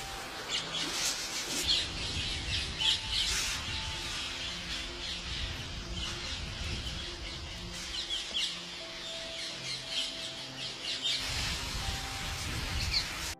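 Pet parrots squawking and chirping in many short, sharp calls, coming in irregular clusters.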